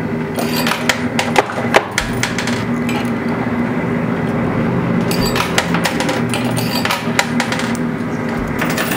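Quarters dropping and clinking on a coin pusher's metal playfield, with many short sharp clicks, over steady background music.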